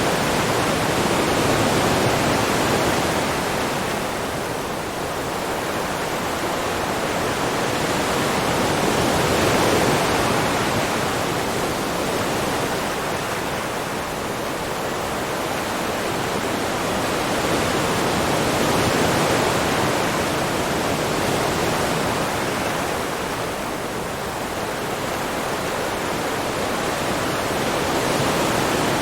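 Continuous rush of sea water, swelling and easing slowly about every eight to nine seconds like passing waves.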